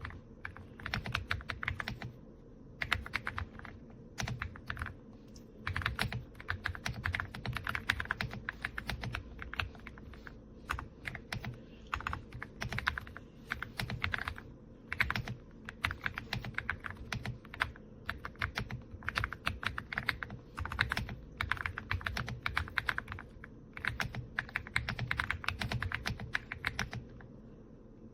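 Typing on an AULA F99 mechanical keyboard: rapid runs of key clicks in bursts of a second or two, with short pauses between them, stopping about a second before the end.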